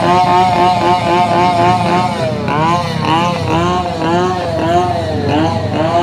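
Vehicle engine and exhaust being revved over and over, the pitch rising and falling several times a second, with deeper drops about two and a half and five seconds in.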